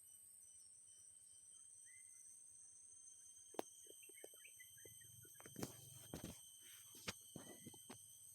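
Faint short bird chirps, a few single notes and a quick run of them in the middle, over a steady high-pitched whine. Several sharp clicks or knocks come in the second half.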